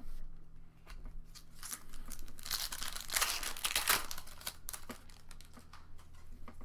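Foil booster pack wrapper crinkling and being torn open, a dense crackle that is loudest from about two and a half to four seconds in.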